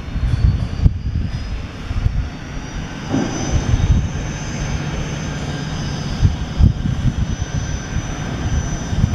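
Air Tractor AT-802F's Pratt & Whitney PT6 turboprop on final approach: a steady high turbine whine over a low, gusty rumble, the whine rising slightly in pitch over the first three seconds and then holding.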